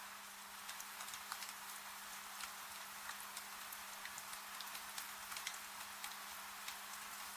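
Wood fire crackling with scattered sharp pops over a steady hiss of rain, with a faint steady hum underneath.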